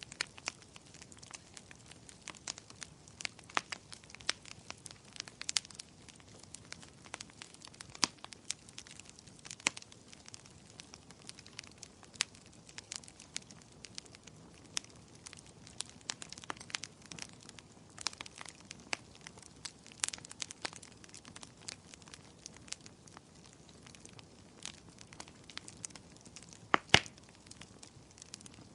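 Burning firewood crackling: irregular sharp pops and snaps over a low hiss, with a louder double pop near the end.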